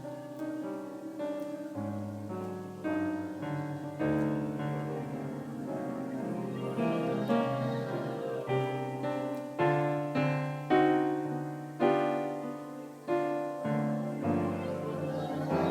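Improvised keyboard playing with a piano sound: held chords over low bass notes. From about halfway in, accented chords are struck roughly once a second.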